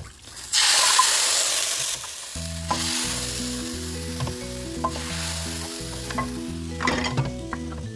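Softened beef scraped from a frying pan into a hot stockpot of sautéed garlic, ginger and onion, sizzling loudly in the oil from about half a second in. The sizzle eases after a couple of seconds while a spoon scrapes and stirs, with a few clicks of metal on the pan. Low steady tones run underneath from a little past two seconds in.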